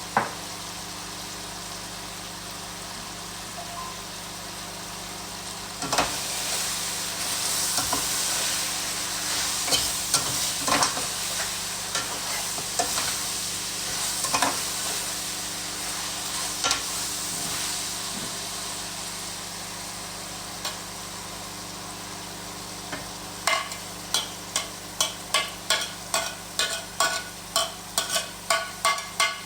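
Food sizzling in a frying pan, with the occasional clack of a utensil against the pan, over a steady hum. Near the end a utensil starts knocking against the pan about twice a second.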